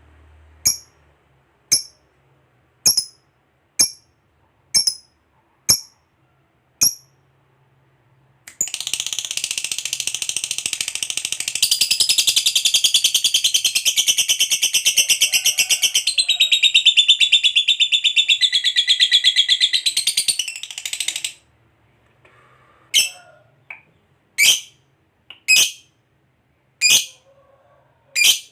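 Lovebird calling: sharp high single chirps about once a second, then a long, unbroken, fast chattering trill (ngekek panjang) of about thirteen seconds, then single chirps again.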